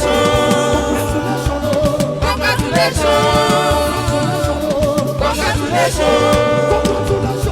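Gospel-style music with several voices singing wavering, held notes over a steady bass line.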